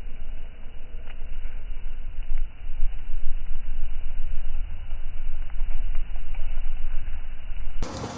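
A loud, muffled, uneven low rumble with a few faint clicks.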